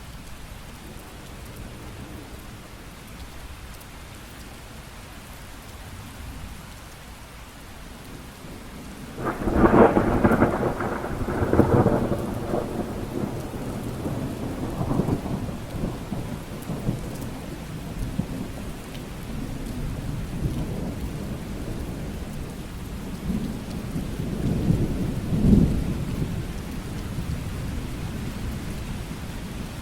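Steady rain falling, with a thunderclap breaking out about nine seconds in and rolling on for several seconds, and a second, smaller rumble of thunder near the end.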